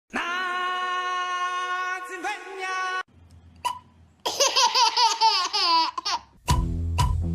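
A long, steady, high-pitched held voice sound lasting about three seconds, then after a short pause about two seconds of baby laughter with quick hiccup-like wobbles in pitch. Music with a steady beat starts near the end.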